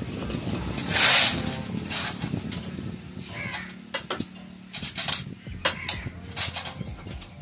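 Metal clicks and taps of hand work fitting the cylinder head onto a TVS XL's two-stroke engine, with a short loud hiss about a second in, over a low rumble.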